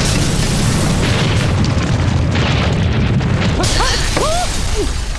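Cartoon sound effects: a sustained rumbling explosion-like blast with music underneath. A few short squeaky pitch glides come in past the middle.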